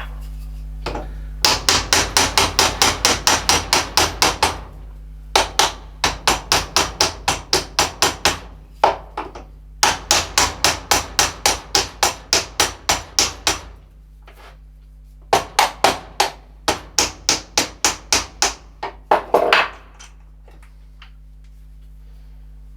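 A hammer striking rapidly and evenly, about five blows a second, in four runs with short pauses between. It is knocking at a stuck part to drive it loose.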